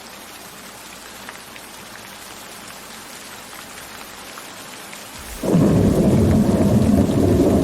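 Steady rain falling, with faint scattered drop ticks, then about five seconds in a loud deep rumble of thunder sets in suddenly and keeps rolling over the rain.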